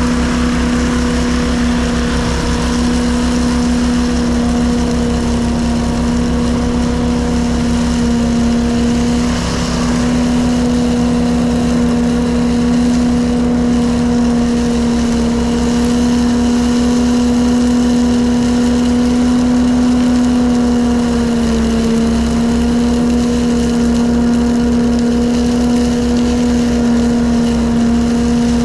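Engine-driven straw blower running steadily at working speed, a loud even hum over the engine's fast low pulsing, its pitch sagging slightly about two-thirds of the way through.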